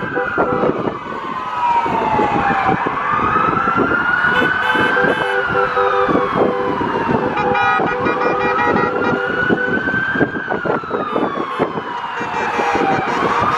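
Emergency vehicle sirens in a slow wail, the pitch sliding down and back up about every five seconds, over a steady noisy rumble of traffic.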